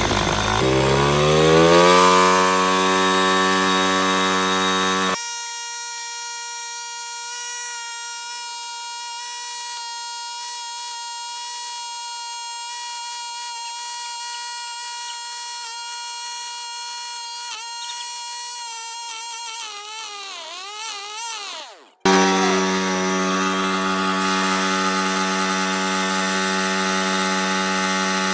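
Small single-cylinder engine of a Chinese dirt bike revving up and held at high revs, screaming steadily at wide-open throttle as it is run to try to blow it up. The sound changes abruptly twice, thinning and wavering in the middle, then returns loud near the end.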